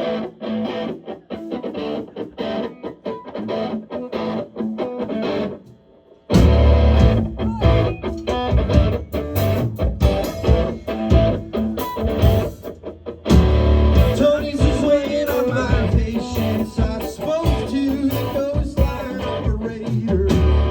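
Live rock band playing: an electric guitar plays choppy chords alone, then after about six seconds drums and bass guitar come in with the full band. After a brief break near the middle a voice sings over the band.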